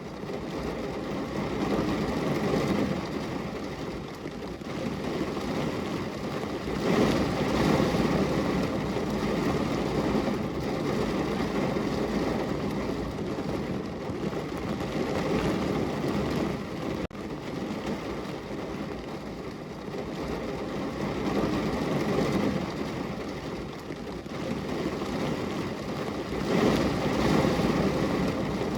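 Heavy rain pouring down in a dense, steady rush that swells louder and eases off every few seconds.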